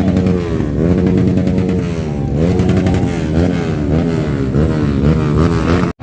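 Trail motorcycle engines revving, their pitch rising and falling again and again as the throttles are blipped; the sound cuts out briefly near the end.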